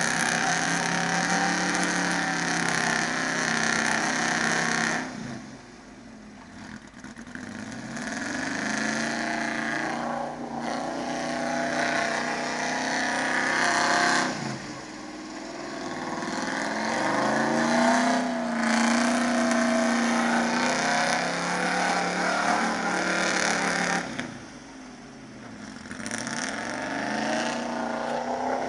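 Old 4x4 truck's engine revving hard in long pulls, dropping off about five seconds in, again near the middle, and once more a few seconds before the end, each time climbing back up.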